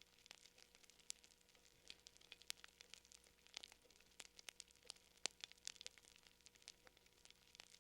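Wood fire crackling softly: irregular sharp pops and snaps, several a second, with no steady rhythm.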